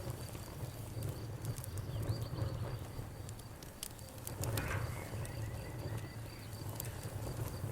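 Wood fire burning in a fireplace, crackling with scattered sharp pops over a low steady rumble of the flames, and a brief louder hiss about halfway through.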